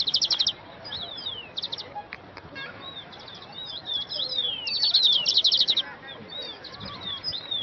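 Songbirds singing and calling: repeated high whistled notes that slide downward, mixed with fast dry trills, the longest trill coming about five seconds in.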